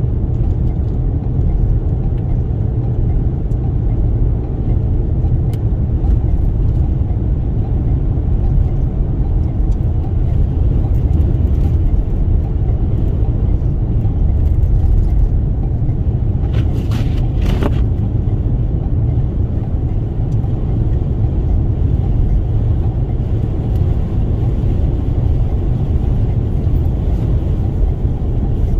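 Steady low rumble of road and wind noise inside a Toyota Sienna minivan's cabin while driving, with a short burst of higher-pitched noise a little past halfway.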